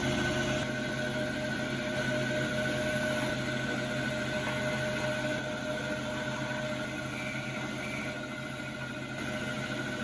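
A motor running steadily, giving a constant hum with a steady whine over a rushing noise.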